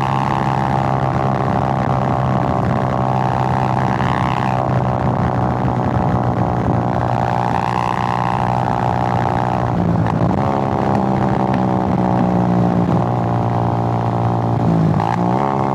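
Suzuki GN125's single-cylinder four-stroke engine running steadily under way, its note wavering up and down. Twice, about ten seconds in and again near the end, the engine note breaks off briefly, drops, and climbs again.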